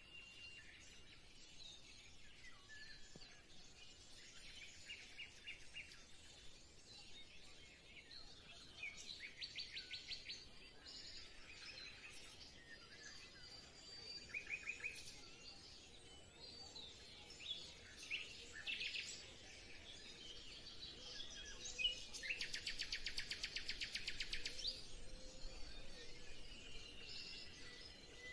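Birds chirping and singing, with several fast trills, the longest and loudest about three-quarters of the way through.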